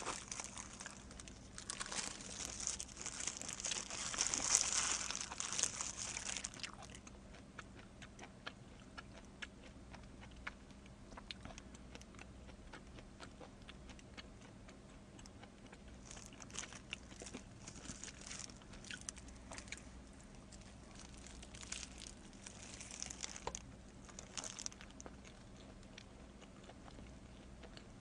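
Close-miked eating of pizza: crinkling of plastic gloves and food handling for the first several seconds, then faint chewing with soft mouth clicks, busier again about two-thirds of the way through.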